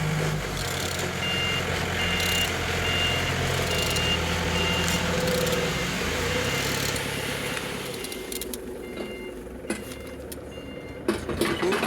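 A car engine running at idle with a steady hum, then shutting off about eight seconds in. A two-tone electronic beeping repeats about twice a second through the first half and briefly again near the end.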